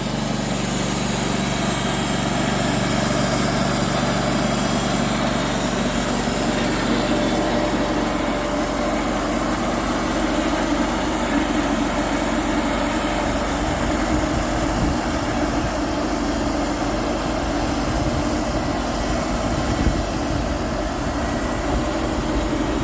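Wood-Mizer LT35 portable band sawmill running, its engine driving the band blade through a log in a steady drone. The low rumble grows rougher and more uneven a little past halfway.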